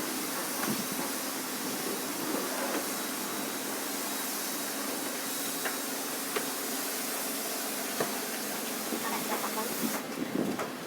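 Self-service car wash foam brush spraying foam: a steady hiss with a few faint knocks, cutting off suddenly about ten seconds in.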